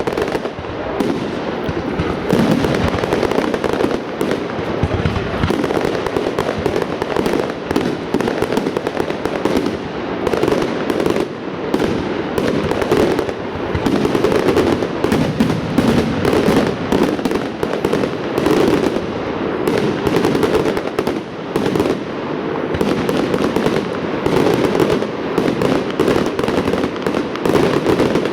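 Fireworks display: aerial shells launching and bursting in a dense, unbroken barrage of overlapping bangs and crackle.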